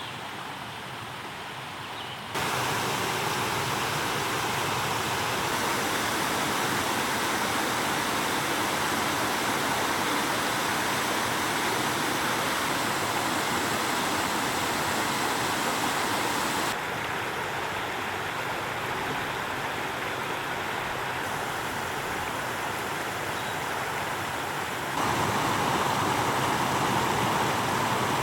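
Steady rush of creek water tumbling over waterfalls and cascades. It steps up sharply about two seconds in, dips a little past halfway, and rises again near the end.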